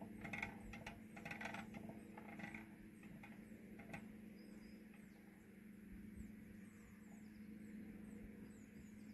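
Faint birds chirping, short high falling notes, over a low steady hum, with light clicking and rattling in the first few seconds.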